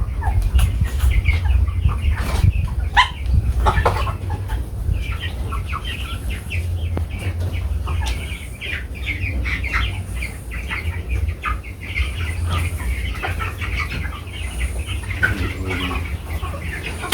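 A flock of broiler chickens calling and clucking throughout, many short overlapping calls. There are a few sharp knocks in the first few seconds and a steady low rumble underneath.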